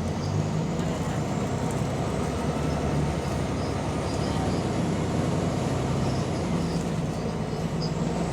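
Diesel bus engine running while the bus is under way: a steady low rumble with a faint high whine that slowly rises and falls back near the end. The bus has an exhaust leak.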